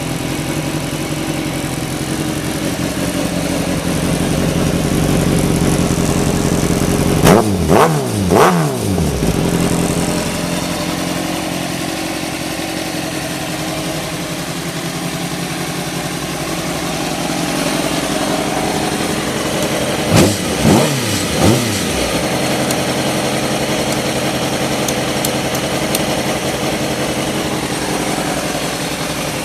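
Kawasaki ZX-6R 636 inline-four sport bike engine idling through a Tsukigi aftermarket muffler. It is blipped quickly twice about a quarter of the way in and three times past the middle, each rev rising and falling straight back to a steady idle.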